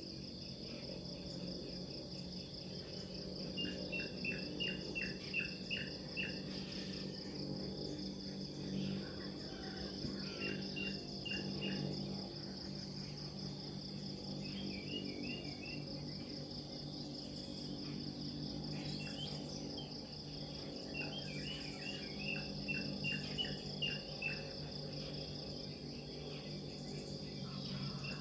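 Nature ambience of insects, most likely crickets: a steady high-pitched trilling runs throughout. Several times it is broken by runs of quick chirps, with a low steady hum underneath.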